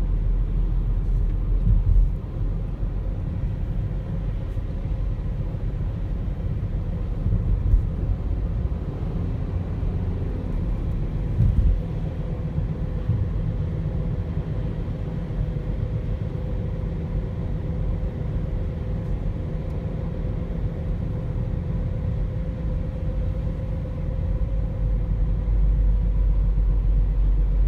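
Car driving along a road: a steady low rumble of road and engine noise with faint steady tones, broken by short thumps about 2, 8 and 11.5 seconds in.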